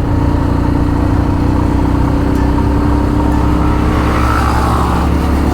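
Motorcycle engine running at a steady speed while riding, its note held level without revving up or down, over constant road and wind noise.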